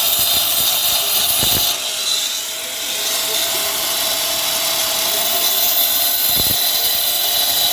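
Electric grinder cutting a groove into a wall along a marked outline, the chase for a concealed pipe: a loud, steady, high-pitched running whine with grinding noise. It eases off for about a second around two seconds in, then runs on steadily.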